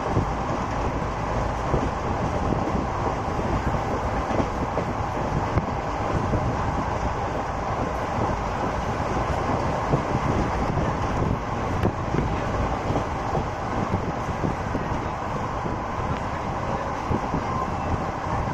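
Train running along the track: a steady rumble with frequent small, irregular knocks and rattles.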